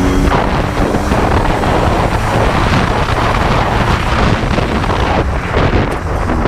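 Heavy wind buffeting the microphone while riding an ATV, the engine's note mostly buried under it.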